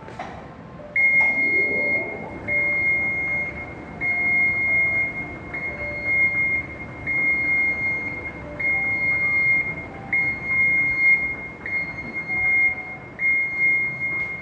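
Escalator warning buzzer sounding over and over: a high, steady electronic beep lasting a little over a second, repeating about every one and a half seconds, starting about a second in.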